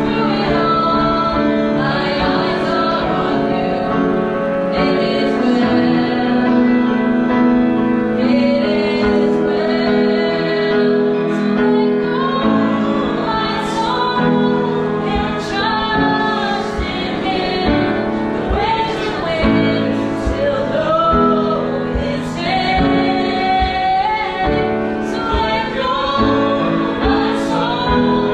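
Church worship music: singing over a band with a steady beat.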